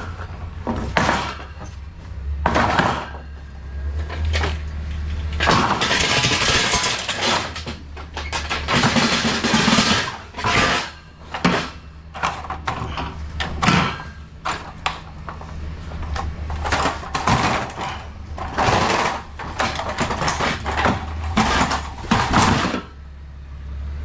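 Forklift loading pallets of sawdust bags into a trailer: irregular rattling and banging bursts, some lasting a second or more, over a steady low engine hum.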